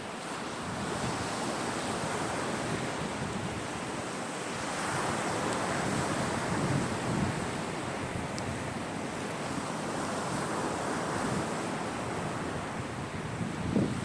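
Caspian Sea waves washing onto the shore, the surf swelling and easing in slow surges, with some wind on the microphone. A single short, sharp pop sounds near the end.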